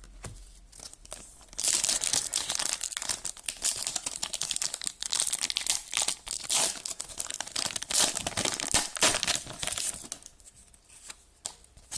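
Foil Pokémon card booster pack being torn open and crinkled by hand, a dense crackling that runs for several seconds and dies down near the end.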